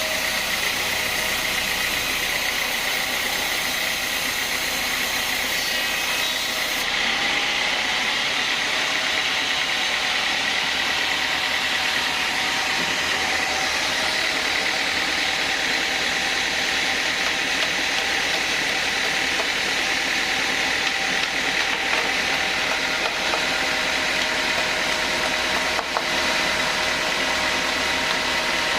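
Sawmill band saw running steadily, a dense machine noise with a steady high whine.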